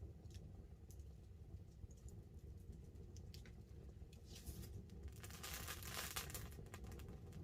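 Wood campfire crackling with scattered small pops, building to a dense run of crackling about two-thirds of the way through.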